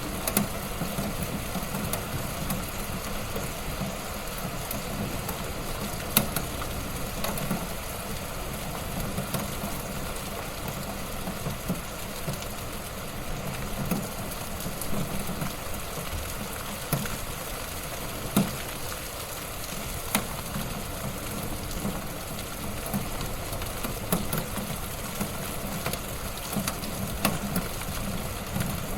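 Wood fire burning in a fireplace: a steady low rumble and hiss of flames with scattered sharp crackles and pops.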